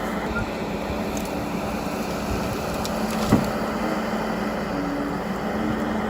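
Forest harvester at work: its engine hums steadily under a dense crackle of splintering wood, with one sharp knock a little after halfway.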